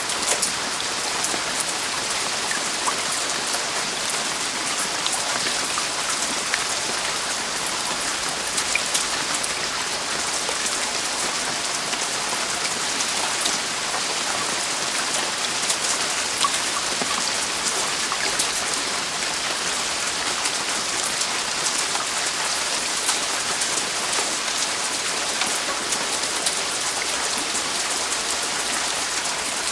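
Heavy rain falling on a roof: a steady dense hiss with many sharp drop ticks.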